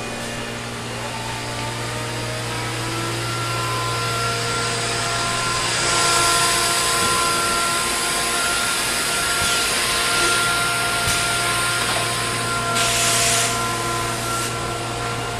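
Biesse Rover CNC router running: a steady machine whine of several tones over a low hum. The noise grows louder about six seconds in, and a short hiss comes near the end.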